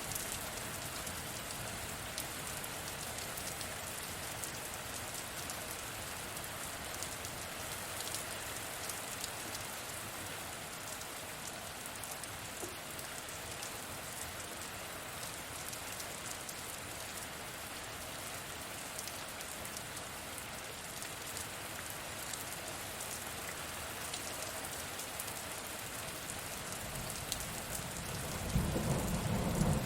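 Steady rain falling, an even hiss with fine patter of drops. Near the end a low rumble of thunder begins.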